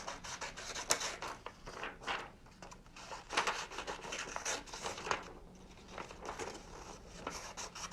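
Scissors cutting construction paper: irregular snips with paper rustling and crinkling as the sheet is turned.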